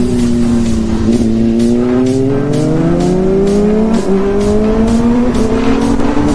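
Sportbike engine pulling under throttle, its pitch climbing slowly, with a short break about four seconds in. Background music with a steady beat plays along.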